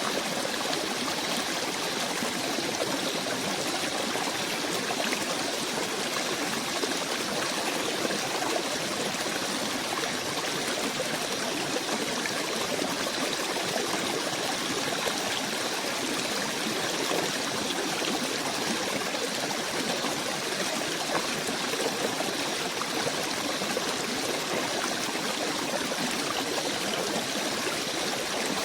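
Steady running water of a small stream, a continuous even babble with no pauses or changes.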